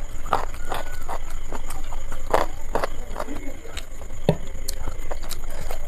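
Close-miked chewing and wet mouth smacking while eating biryani, with fingers squishing rice and chicken on a plate. The sound is a run of irregular clicks and smacks.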